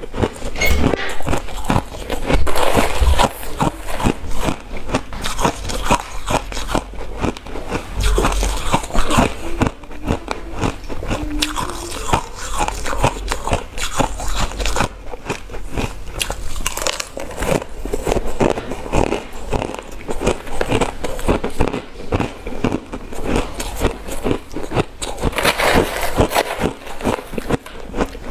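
Ice being bitten and chewed close to the microphone: a dense run of crunches and crackles as the ice breaks between the teeth.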